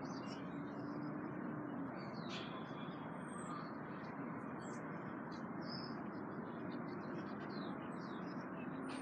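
Small birds chirping and calling in quick, short notes again and again, over a steady background hiss.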